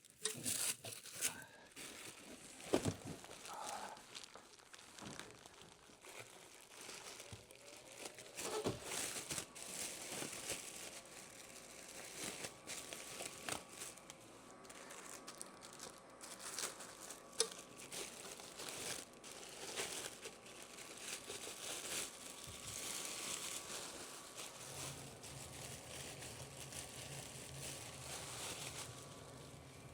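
Packaging being handled and pulled away while a bench grinder is unpacked: crinkling and rustling with scattered clicks and knocks throughout.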